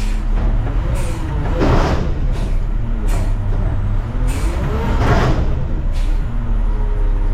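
Front-loader garbage truck's diesel engine running, its pitch rising and falling slowly as the hydraulics are worked. Two short loud bursts of noise come about three seconds apart.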